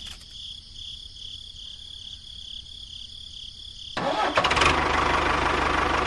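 A faint, steady high whine pulsing gently for about four seconds, then an engine starting abruptly and running loudly and steadily.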